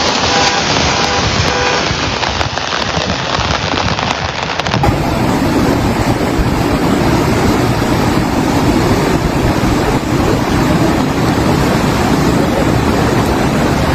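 Loud, steady noise of a heavy rainstorm. The sound changes abruptly about five seconds in, becoming fuller and heavier.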